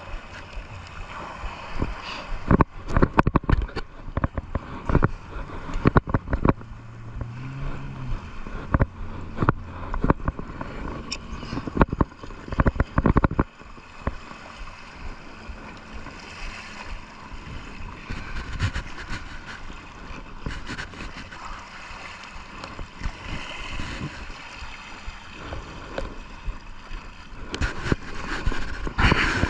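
Sea water splashing and gurgling close to the microphone, with many irregular knocks and thumps, thickest in the first half and again near the end.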